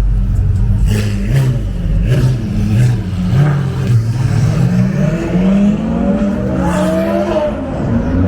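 Ferrari sports car accelerating hard. The engine note climbs and drops through several quick upshifts, with sharp cracks in the first few seconds, then rises again in one longer pull in the second half.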